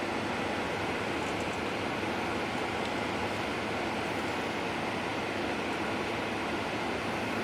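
Steady engine and road noise of a moving bus, heard from inside the passenger cabin.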